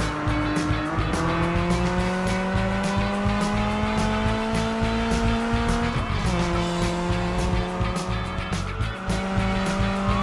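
Cartoon engine sound effect for a monster truck driving along. It revs with a slowly climbing pitch, drops about six seconds in, then climbs again, over background music with a steady beat.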